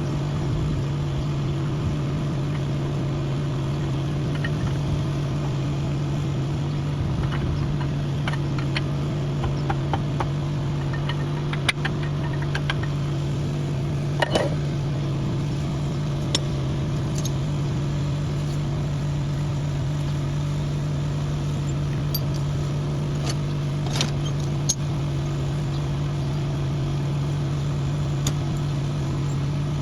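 Steady mechanical drone of a running motor, with light metallic clinks and taps now and then, the strongest a little before and a little after the middle.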